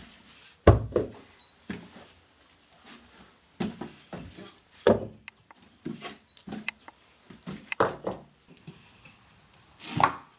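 Rocks being handled on a stone pile: an irregular run of knocks and thuds as stones are lifted and set down, the heaviest thud about a second in and another near the end.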